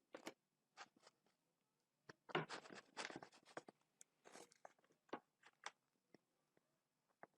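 Close-up eating and snack-handling sounds: a run of short quiet clicks, scrapes and crunches, densest from about two and a half to three and a half seconds in.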